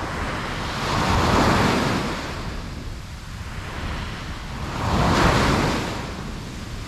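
Ocean waves breaking on a beach: two waves crash and wash back, about a second and about five seconds in, over a steady surf hiss with some wind.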